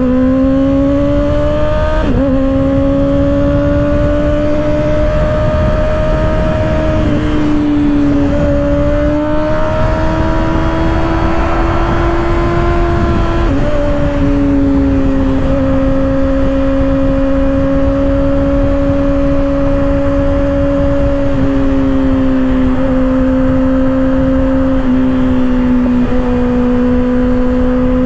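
Kawasaki ZX-6R 636 inline-four running through an M4 aftermarket exhaust with its baffle still in. It accelerates, drops in pitch at a gear change about two seconds in, changes revs a few more times, then cruises at nearly steady revs with small dips in the second half.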